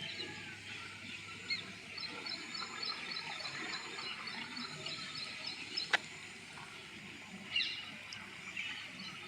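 Small birds chirping outdoors, with runs of rapid short high notes and a steady background hum of open countryside; a single sharp click about six seconds in.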